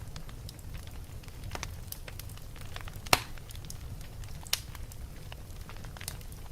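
Wood fire burning in a fireplace, with a low steady rumble and irregular crackles and pops; the sharpest pop comes about three seconds in, another about a second and a half later.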